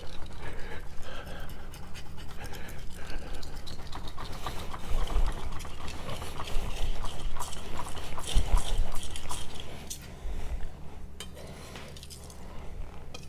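AEB-L stainless steel knife blade being stroked back and forth on a wet Nano Hone whetstone in freehand sharpening: a run of rhythmic scraping strokes, getting quieter near the end.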